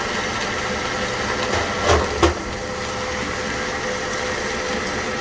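Steady hum of a running kitchen appliance motor, with two short knocks about two seconds in.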